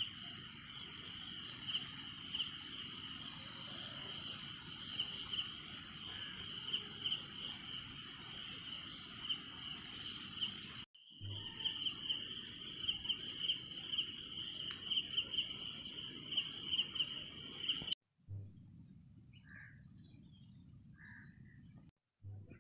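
Outdoor chorus of insects, several steady high pulsing trills layered together, with a few short bird chirps. The sound cuts out briefly twice, and after the second break a single louder, higher insect trill takes over.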